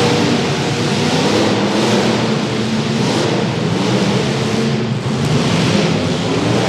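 Engines of several demolition derby cars running and revving together, a loud continuous din.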